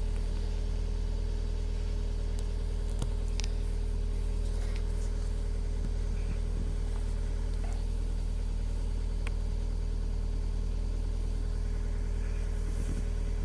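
2015 Toyota Auris 1.4 four-cylinder turbodiesel idling steadily about 40 seconds after a cold start at −13 °C with no preheating.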